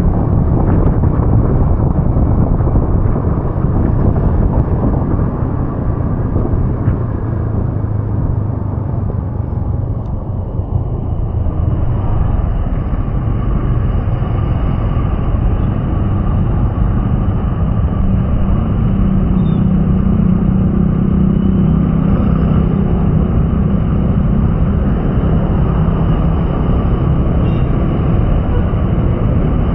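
Steady low rumble of motor vehicles on a wet road, with a low engine hum growing stronger for several seconds past the middle.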